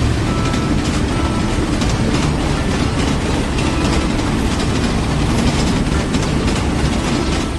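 Train running on rails, its wheels clattering steadily.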